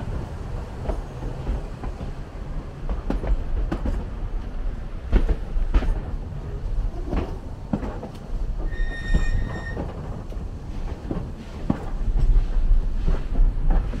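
Narrow-gauge train wheels running on the rails: a steady low rumble with irregular clicking and knocking, and a short high wheel squeal about nine seconds in.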